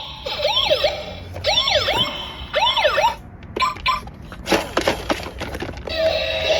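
Electronic police siren sound in quick rising-and-falling sweeps for about three seconds, followed by a few sharp clicks and clacks.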